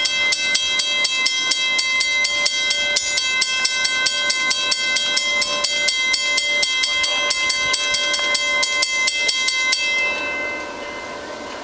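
Railway level-crossing bell ringing, rapid regular strikes, about four or five a second, each with a ringing tone; it stops about ten seconds in, leaving a quieter background.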